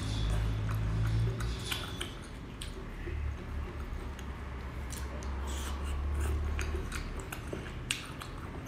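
Close-up chewing and biting of cooked sea snail meat pulled off a skewer, with many short wet clicks and smacks. A low steady hum runs underneath.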